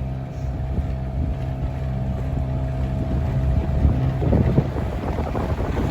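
Boat motor running steadily under tow load, with wind buffeting the microphone. About four seconds in, the motor's steady note fades and a rougher rushing noise rises.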